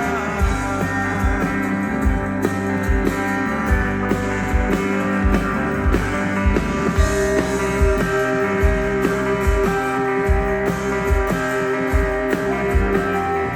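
Instrumental passage of a live band: guitar playing sustained melodic lines over a steady drum beat.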